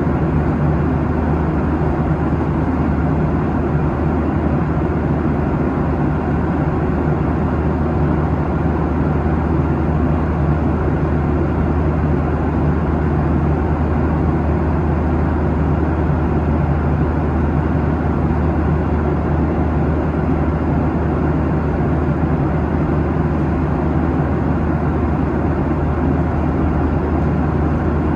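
Cabin noise of a Boeing 737-800 airliner in cruise: a steady roar of CFM56 engines and airflow over the fuselage, with a constant low hum and no changes.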